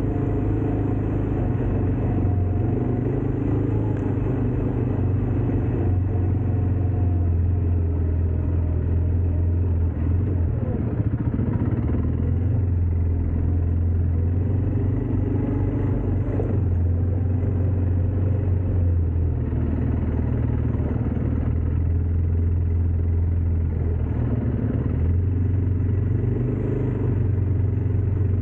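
ATV engine running under way, a steady low drone that swells and eases every few seconds as the throttle changes.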